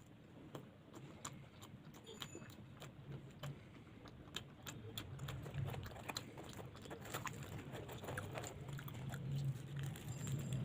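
Close-up sounds of a person eating luchi with potato curry: many small, irregular clicks and smacks of chewing and biting, over a low steady hum that grows louder near the end.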